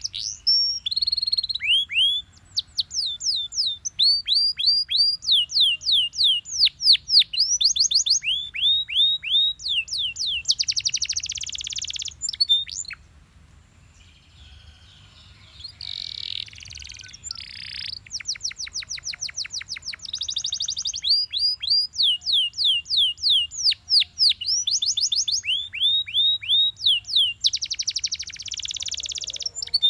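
Belgian canary singing long, fast trills of repeated falling notes, changing speed from trill to trill, with a short pause about halfway through before the song resumes.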